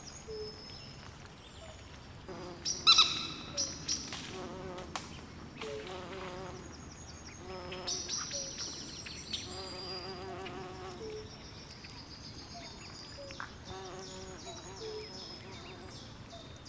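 Night swamp chorus: insects chirping in quick high pulses throughout, frogs giving pulsed trills and short low calls now and then. A sharp, louder call stands out about three seconds in.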